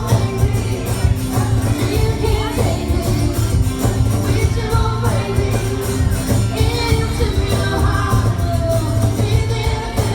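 Live country band music with singing over a steady bass line and beat.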